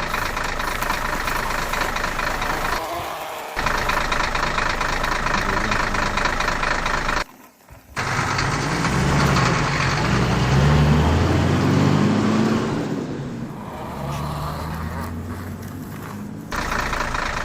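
Engine-like running noise that breaks off for a moment about seven and a half seconds in, then comes back with a lower, uneven drone that shifts in pitch.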